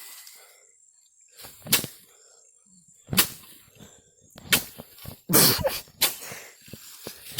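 Sticks beating and swishing through dry brush in a rat hunt: about five sharp whacks spread over several seconds, with quiet between them.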